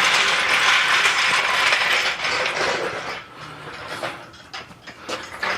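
A ratcheting hand tool clicking rapidly as it works on a bolt for about two seconds, then fading into quieter scattered clicks.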